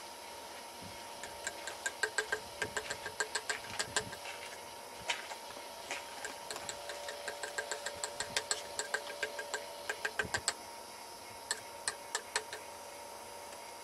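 Runs of sharp clicks, several a second, starting and stopping in bursts over a steady hum.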